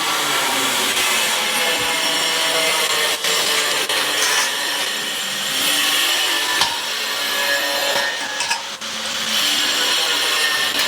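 Continuous rasping, sawing-like noise of tools at work on a building site.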